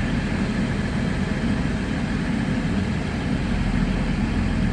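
LNER Class 800 Azuma train, two 5-car units coupled, arriving at the platform with a steady low rumble.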